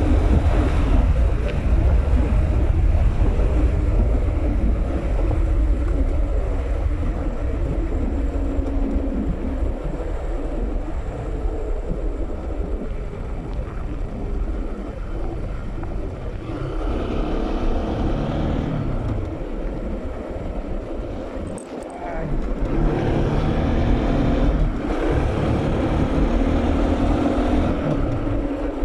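Bajaj Pulsar NS200 single-cylinder engine running on the move, with heavy wind buffeting on the microphone. The engine note climbs about 17 seconds in, drops off briefly, then climbs again about 22 seconds in as the bike accelerates.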